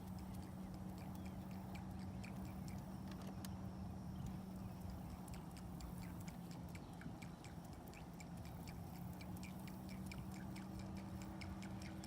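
Fast, irregular ticking and clicking over a steady low hum, as a baitcasting reel is cranked to work a topwater lure.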